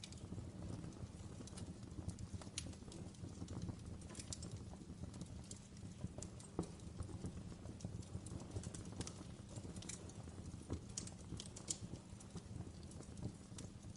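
Wood fire crackling in a fireplace: irregular sharp snaps and pops from the burning logs over a low, steady rumble.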